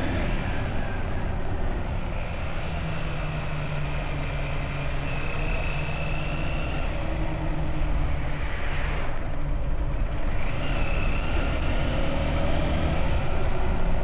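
Motorbike engine running at a steady pace while riding, with road and wind noise around it. About eight to ten seconds in, a brief swell of rushing noise rises and falls away.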